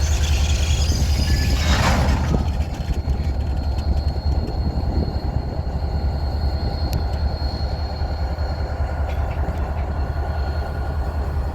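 Freight train moving slowly, a low steady rumble from the locomotive and rolling cars, with a brief rushing swell about two seconds in and a faint steady high squeal in the middle.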